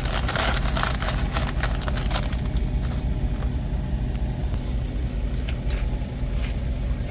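Semi-truck's diesel engine idling steadily, heard from inside the cab, with rustling and small clicks during the first couple of seconds.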